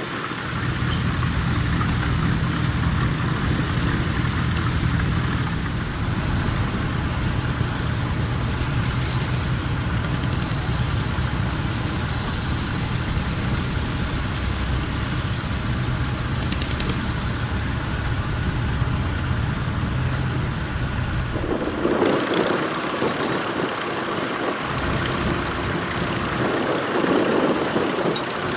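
Tractor engine running steadily with a low drone. About twenty seconds in, the drone drops away and a rougher, higher noise takes over.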